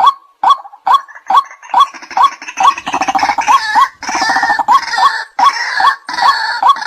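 White-breasted waterhen calls: a steady string of short, loud notes at about two to three a second. From about two seconds in until near the end, a harsher, rapid croaking chatter lies over them.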